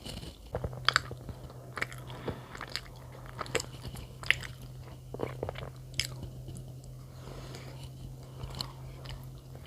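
Close-up chewing and biting of bread, with irregular wet mouth clicks and smacks. A low steady hum comes in about half a second in.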